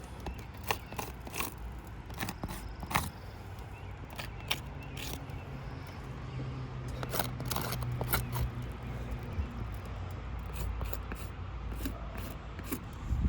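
Irregular sharp clicks, scrapes and crackles of old, brittle asphalt shingles being handled and worked on a roof.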